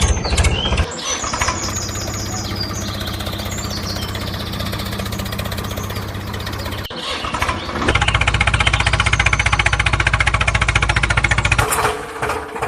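Tractor engine running with a fast, regular beat, in stretches that change abruptly about a second in, near seven seconds and again near twelve seconds.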